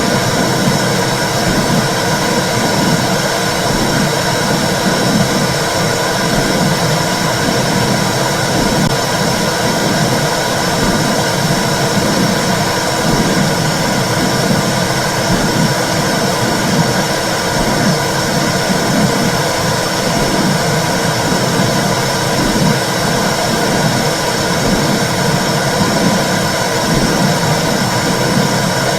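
Womb sound for soothing babies: a loud, steady whooshing rush with a low, pulsing swell running through it.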